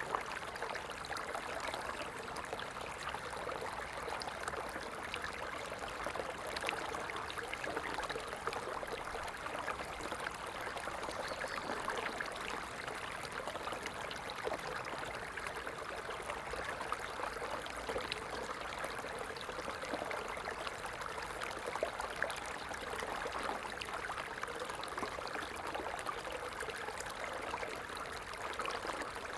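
Stream water running steadily, an even rushing and trickling with no breaks.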